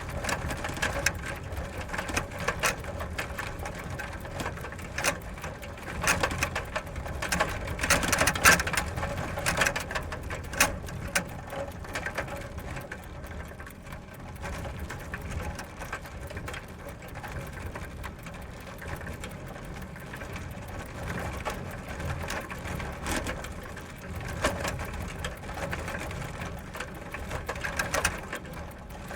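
Bicycle ridden fast on gravel: tyres crunching over loose stones with a dense, steady mechanical rattle. It swells louder about six to eleven seconds in and again near the end.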